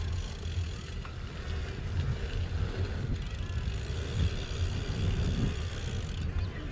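Wind buffeting and rolling noise picked up by a helmet-mounted action camera while riding a BMX bike: a steady, rough low rumble with a hiss above it.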